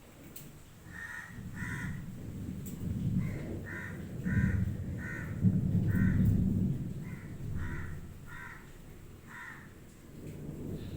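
A crow-like bird cawing over and over, about a dozen short harsh calls in steady succession, over a low rumbling noise that swells in the middle.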